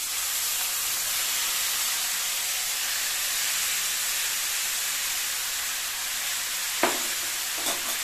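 Marinated chicken sizzling in hot oil in a cast-iron kadai, a loud steady frying hiss that starts as the chicken goes in. Two short knocks about seven seconds in.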